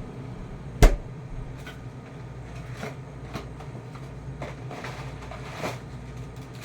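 Frozen food boxes and packages being handled while a freezer is cleared out: one sharp knock about a second in, then several softer knocks and rustles, over a steady low hum.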